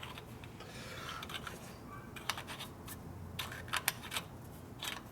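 Small metal parts being handled: a short scraping rub, then a series of sharp clicks and clinks as pieces are knocked together and set down.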